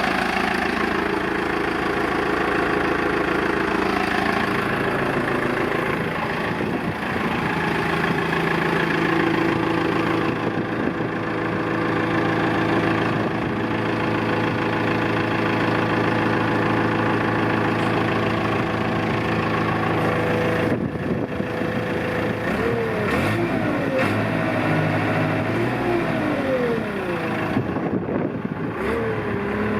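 Diesel engine of a 2001 Thwaites 6-tonne straight-tip dumper running steadily. In the last third its pitch rises and falls several times.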